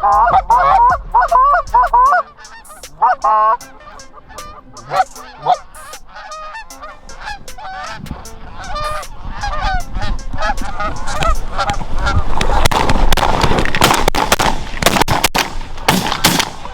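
Geese honking: loud calling for the first two seconds, then a large flock's honking swelling from about eight seconds in. Near the end, a quick volley of shotgun blasts as hunters fire into the flock.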